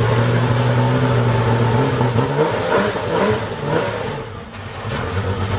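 Porsche 911 GT3 Cup race car's flat-six engine and exhaust running steadily, then revved in a few quick blips about two seconds in, the pitch rising and falling, before settling back to a steady idle.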